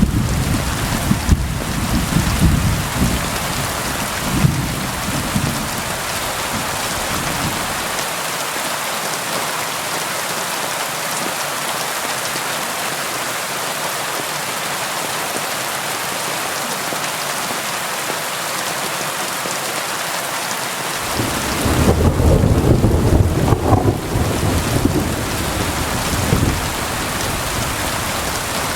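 Steady rain drumming on a tin roof, with rolling thunder rumbling through the first several seconds and again about three-quarters of the way through.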